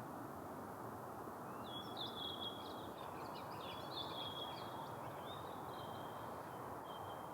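A songbird singing several short, high, trilled phrases, one after another, over a steady rushing background noise.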